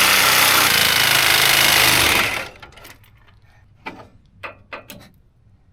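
Reciprocating saw (Sawzall) cutting through a seized steel body-mount bolt, running steadily and stopping abruptly a little over two seconds in as the bolt is cut through. A few light metallic clicks and knocks follow.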